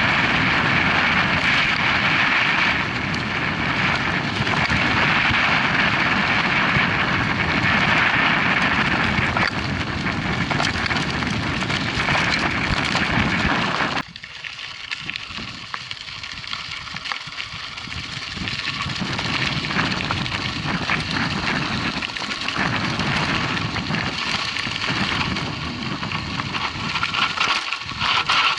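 Wind rushing over the camera microphone and tyre noise from a mountain bike riding a dirt track. The rushing drops suddenly about halfway through, leaving a quieter crunch and rattle of tyres on gravel.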